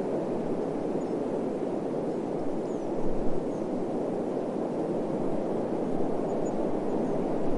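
Steady desert wind rushing, a deep even hiss with a brief stronger gust about three seconds in.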